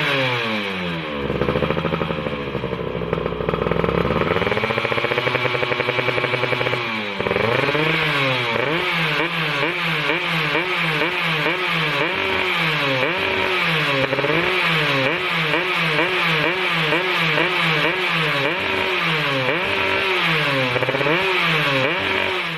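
Yamaha F1ZR two-stroke single-cylinder engine through an RTX racing exhaust, being revved while standing. It is held at higher revs with some wavering for several seconds, drops back about seven seconds in, then gets quick throttle blips about once a second.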